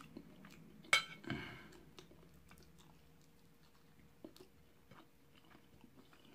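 Quiet chewing and mouth noises of a person eating baked chicken and noodles, with a sharp click about a second in and a duller knock just after it, then faint scattered ticks.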